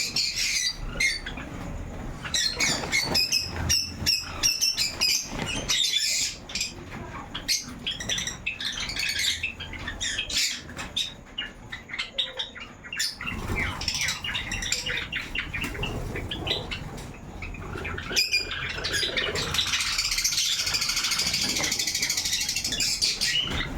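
A flock of Java sparrows chirping and squawking, with wings flapping and fluttering. Many short high chirps overlap, and they thicken into dense chatter near the end.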